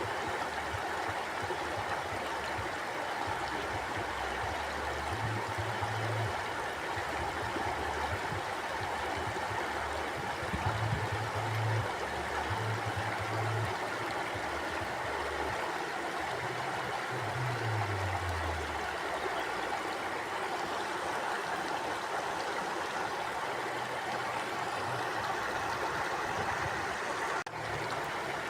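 Mountain stream flowing: a steady, even rush of water over rocks, with a brief dip in level near the end.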